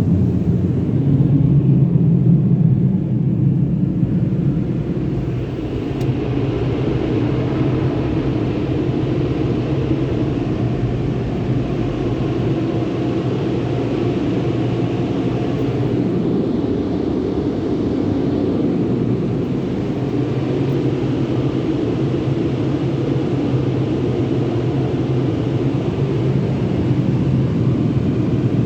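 Automatic car wash tunnel machinery running with a steady, rumbling hum.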